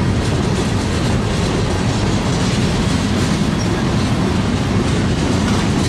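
Freight train of covered hopper cars and tank cars rolling past close by: a steady, loud rolling noise of steel wheels on the rails.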